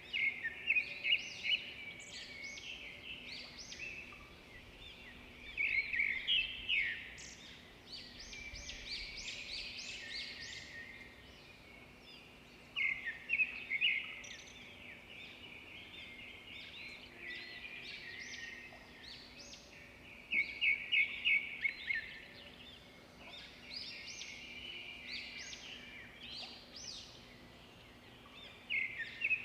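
Birdsong: several birds chirping and twittering, with loud bursts of quick repeated notes every several seconds.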